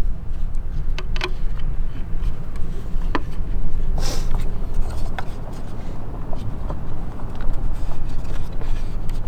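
Low rumble of wind buffeting the microphone, with scattered sharp clicks and a brief rustling burst about four seconds in.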